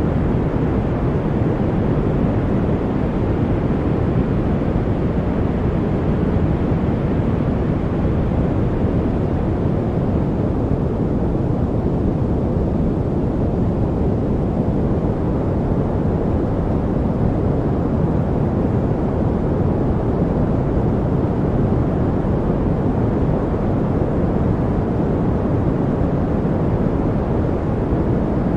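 Steady generated noise, billed as white noise but weighted to the low end like brown noise: a deep, even hiss that never changes.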